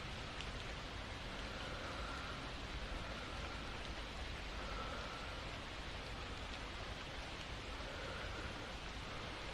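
Steady rain falling, with soft, slow breathing that comes and goes every couple of seconds.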